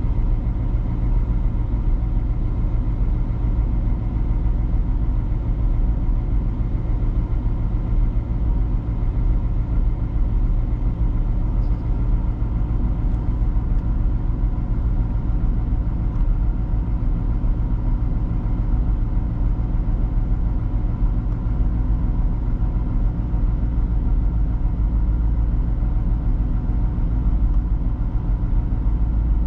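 Chevrolet LT1 5.7-litre small-block V8 of a 1992 Corvette idling steadily while warming up after a cold start.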